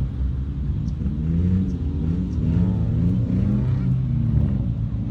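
Small kei truck engine running and revving, its pitch rising and falling unevenly over a steady low rumble.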